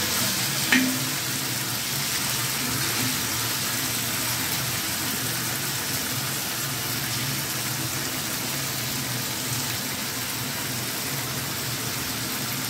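Spice-marinated anchovies sizzling steadily in hot oil on a dosa griddle, with one short knock about a second in.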